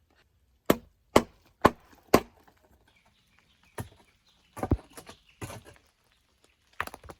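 A hand tool striking hard material: four sharp blows about half a second apart, then a few more irregular strikes later.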